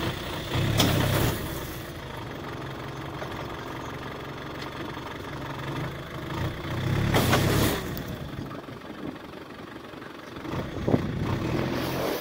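Off-road 4x4's engine running and revved in surges as the vehicle tries to pull itself out of deep snow: a strong rev about a second in, another around seven seconds, and a smaller one near the end, with steady running between.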